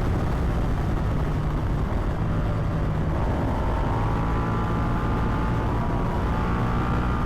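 Ducati Multistrada V4 Pikes Peak's V4 engine running under way, with wind rush, its note climbing a little about three seconds in as the bike picks up speed.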